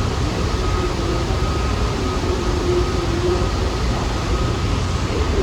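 New York City subway train running at the station: a loud, steady rumble of wheels on the rails, with a faint steady tone above it.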